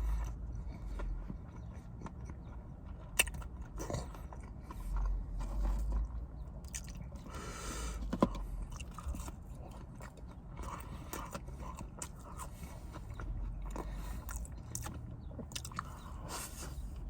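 Close-miked mukbang eating: a man chewing and biting into Chick-fil-A fried chicken sandwiches and waffle fries, with a few sharp clicks and scraping sounds.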